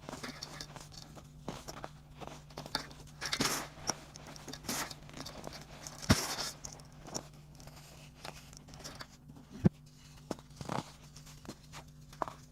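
Dried baking soda chunks being crumbled and crushed, with irregular crunching and crackling and two sharp loud snaps, one about six seconds in and one near ten seconds.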